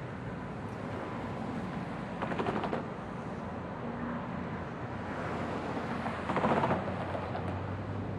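Light rail train running through the station, a steady rumble with two short louder clattering bursts about two and six seconds in.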